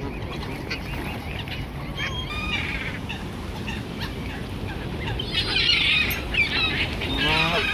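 A flock of waterbirds calling, many overlapping calls at once, growing busier and louder about two-thirds of the way through.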